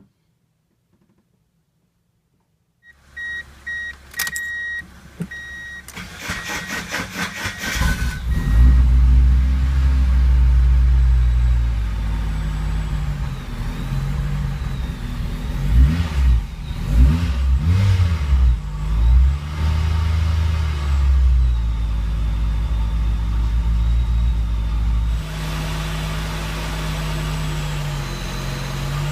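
A 2-litre engine being started. After a few short beeps and a low hum, the starter cranks for about two seconds and the engine catches about eight seconds in. It is revved several times, then settles to a steady idle.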